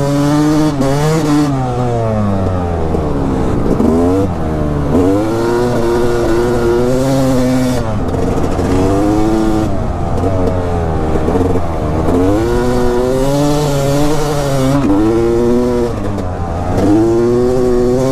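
Dirt bike engine revving up and backing off over and over, its pitch climbing and dropping every second or two as the throttle is worked.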